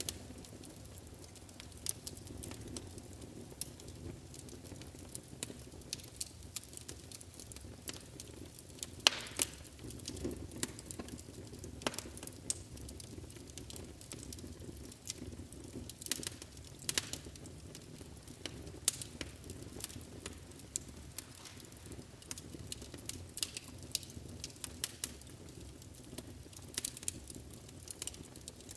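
Wood fire burning in a fireplace: a steady low rumble of flames with irregular sharp crackles and pops, a few louder snaps scattered through.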